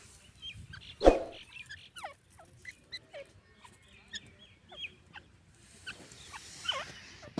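Grey francolins giving many short, scattered chirping calls that slide up and down in pitch, with one loud thump about a second in.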